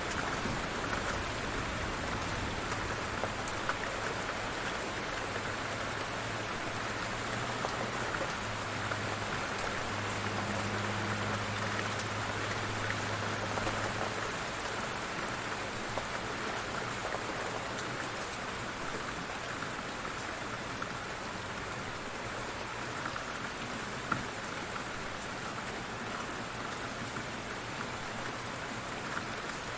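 Light rain falling steadily, with fine pattering drops. A low hum sits under it for the first half, and there is one sharp tick about 24 seconds in.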